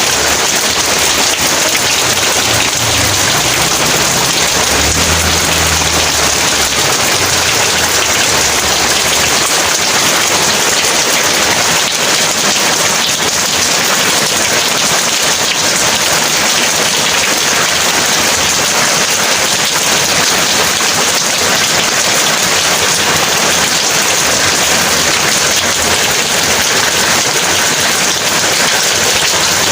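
Heavy rain pouring steadily, with a low rumble of distant thunder through the first several seconds that fades out by about nine seconds in.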